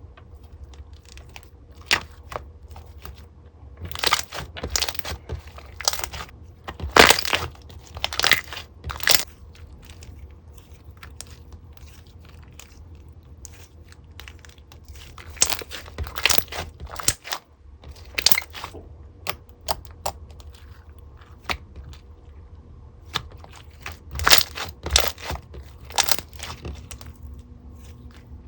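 Small clear slime full of air bubbles being squeezed and pressed by hand, giving irregular sharp pops and crackling clicks that come in clusters as the trapped bubbles burst.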